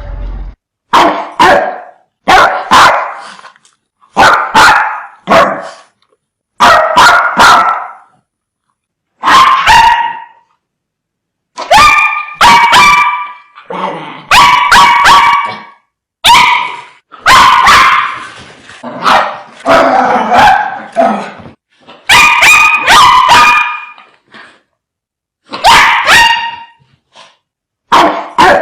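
Dogs barking fiercely in quick runs of two or three loud barks, with short silences between the runs.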